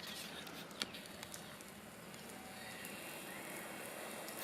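Faint outdoor background noise, with a few short high chirps that rise and then hold and a sharp click a little under a second in.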